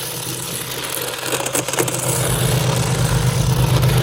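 A four-wheel-drive RC drift car, Toyota Supra scale, running as it drifts: a steady low hum under a noisy hiss, with a few sharp clicks about a second and a half in. It grows louder over the second half.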